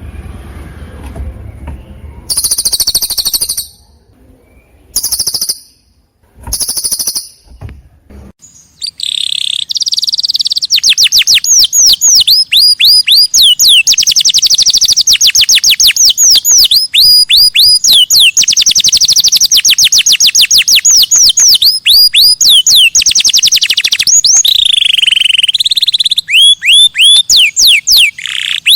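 Songbird singing: a few short, harsh calls in the first seven seconds, then from about nine seconds a loud, rapid, unbroken run of high whistled chirps with quick falling notes.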